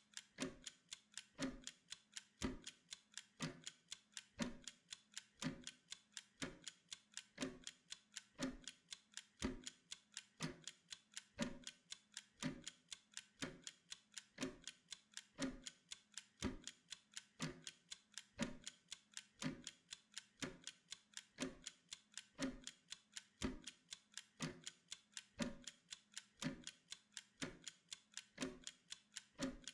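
Wind-up kitchen timer ticking steadily as it counts down a pomodoro work interval. A stronger tick comes about once a second, with lighter ticks between.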